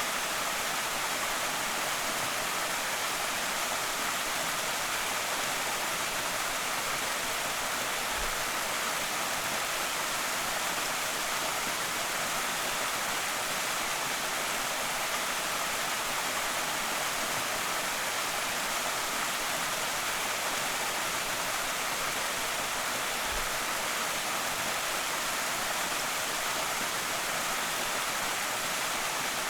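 Small creek waterfall rushing steadily: an even, unbroken hiss of falling water, mostly high with little low rumble.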